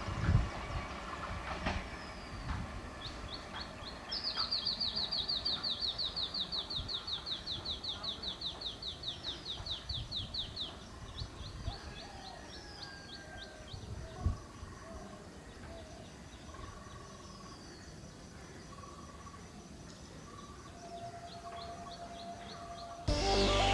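Electric local train (EMU) rumbling faintly as it pulls away into the distance, with a small bird singing a fast trill of short falling notes, about six a second, for several seconds, and other bird calls around it. Two low thumps break in, and music cuts in just before the end.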